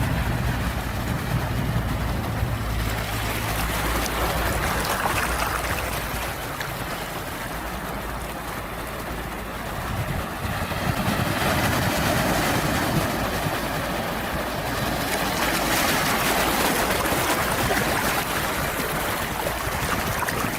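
Sea waves washing in, a continuous rush that eases off and then swells louder about ten seconds in. A low rumble sits under it for the first few seconds.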